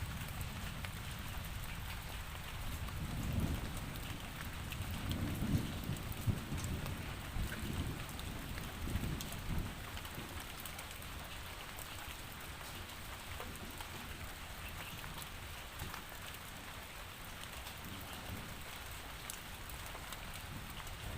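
Steady rain falling, a dense even hiss with small drop ticks. Under it, a low rumble swells and fades through the first half, then dies down.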